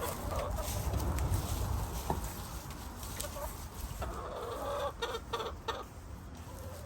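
Backyard hens clucking, with a cluster of short calls about four to six seconds in, and a few sharp clicks among them.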